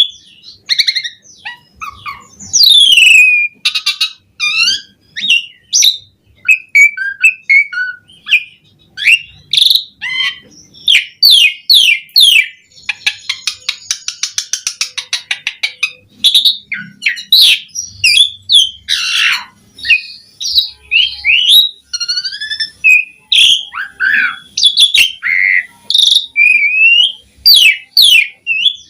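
Asian pied starling singing loudly: a long, varied run of whistles, squawky notes and mimicked phrases, with a fast rattling trill about halfway through.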